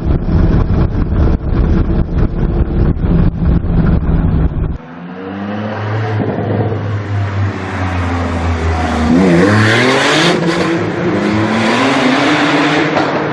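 A loud low rumble with rapid uneven pulses cuts off abruptly about five seconds in. A Porsche engine then holds a steady low note and accelerates hard, its pitch climbing, dropping at a gear change a little after halfway and climbing again.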